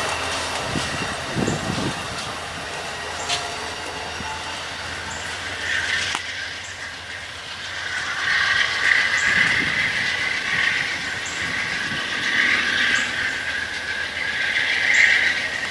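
Train rolling past: steel wheels click over rail joints, and from about six seconds in a high, wavering wheel squeal against the rails dominates.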